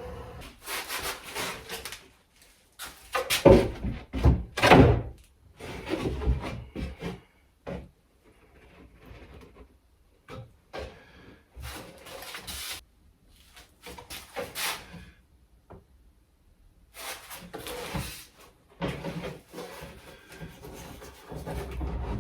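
Plywood pieces being handled and set down on a wooden baseboard: a run of irregular knocks, scrapes and rubs of wood on wood, loudest a few seconds in.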